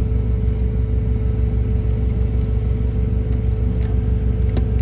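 Semi-truck's diesel engine idling, a steady low pulsing drone with a constant hum, heard inside the cab. A few faint light clicks sit on top.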